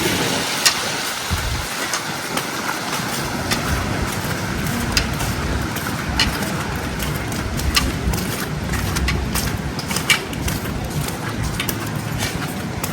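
Footsteps crunching in snow over a steady background of city noise, with many irregular sharp clicks and crackles.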